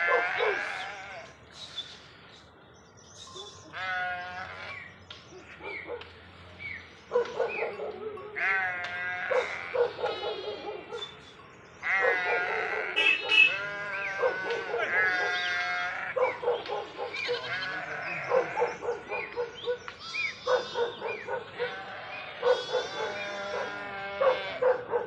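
A herd of goats bleating, with many quavering calls overlapping. The calls are sparse at first and come almost without pause from about seven seconds in.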